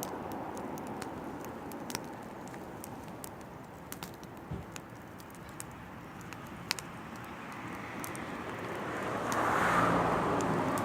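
Oak firewood fire crackling, with scattered sharp pops over a steady hiss. Near the end a broad rush of noise swells up and fades.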